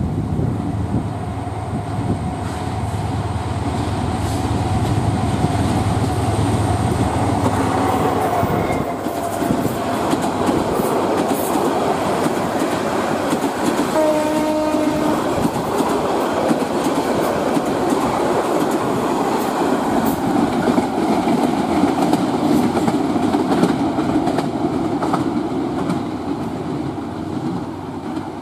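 GM-EMD GT18LA diesel-electric locomotive running past with its engine drumming low, then a long rake of passenger coaches rolling by with wheels clattering over the rail joints. A short horn blast of about a second sounds about halfway through, and the clatter fades slightly near the end as the train moves away.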